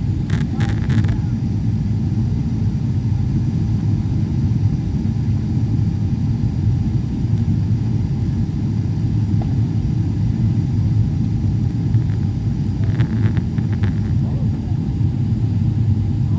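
Steady low rumble of a jet airliner's cabin in flight, engine and airflow noise on the approach to landing.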